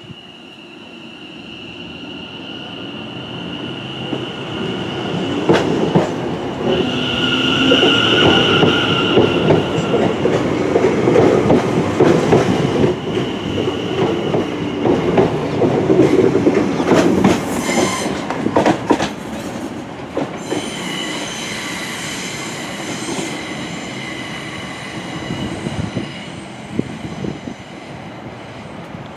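London Overground electric multiple unit running along the platform: its wheel and motor noise builds, is loudest as it passes, and fades as it moves away. A steady high-pitched whine sits over it, and a quick run of wheel clicks over rail joints comes about two-thirds of the way through.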